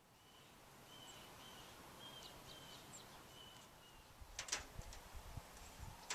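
Faint outdoor ambience with a bird chirping: a run of short, repeated high chirps, then a few sharp clicks or knocks about four and a half seconds in.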